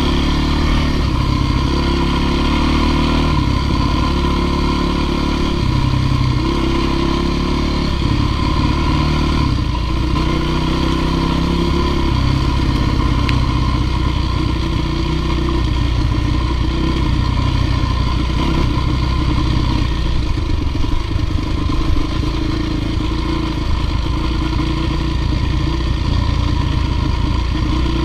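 Dirt bike engine running under load, its pitch stepping up and down over the first dozen seconds and then holding steadier.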